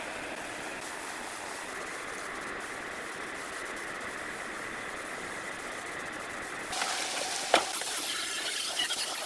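A steady mechanical running noise that changes abruptly about seven seconds in to a louder, brighter noise, with one sharp click shortly after.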